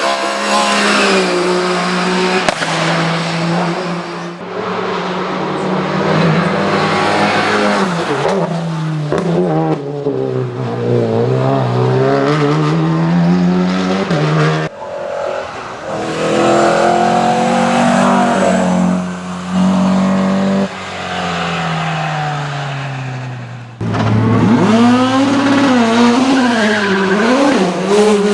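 Race car engines at full throttle, the note climbing and dropping again and again through gear changes, in several short clips cut together with abrupt changes between them.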